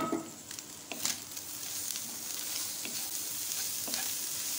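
Chopped cabbage, onion and carrot frying with chicken in oil in a kadhai, stirred with a spatula. There is a knock about a second in, then steady sizzling with light scraping that grows a little louder as the stirring gets going.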